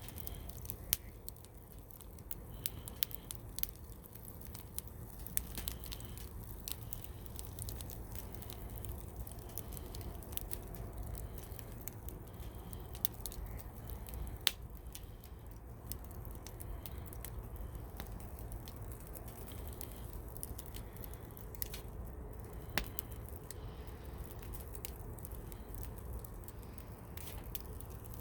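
Wood campfire crackling: scattered sharp pops and snaps, irregular and several a second, over a low steady rumble.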